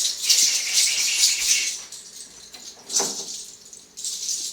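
A bundle of fresh herbs swished and brushed against a person in a cleansing ritual: a quick run of rustling swishes for about two seconds, then quieter, with one more swish near the end.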